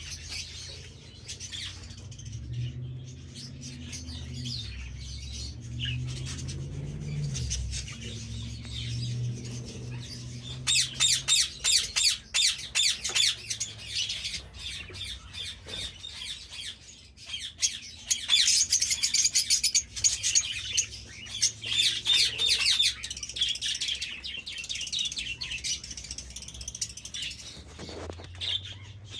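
Small birds chirping and twittering in rapid, high-pitched runs, loudest in two long spells through the middle, over a low steady hum in the first third.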